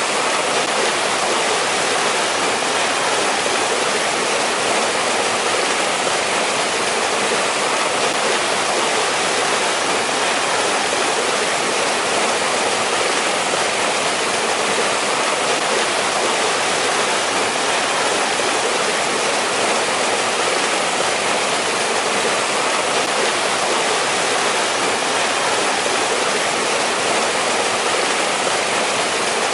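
A mountain stream running steadily over rocks, a constant rushing splash of water with no change.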